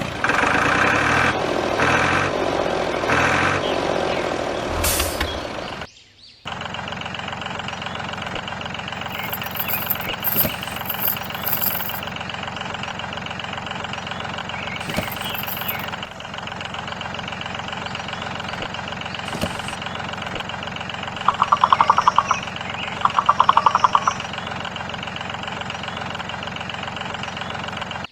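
An engine running steadily. It changes abruptly about six seconds in to a steadier, denser hum, and two short rattles come near the end.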